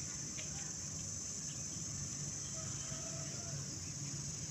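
A steady, high-pitched drone of an outdoor insect chorus of crickets or cicadas, with a low, steady rumble underneath.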